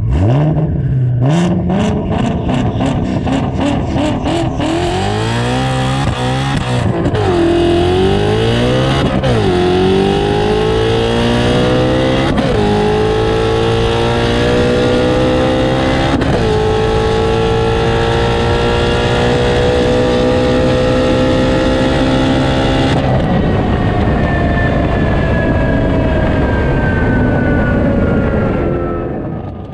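Shelby Mustang V8 launching and accelerating at full throttle through the gears. The engine pitch climbs and drops back with each upshift, about four shifts in the first sixteen seconds, then holds high and fades out near the end.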